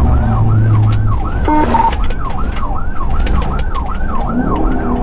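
Police car siren on a fast yelp, sweeping up and down about three times a second, over the noise of the pursuing car's engine and tyres at speed.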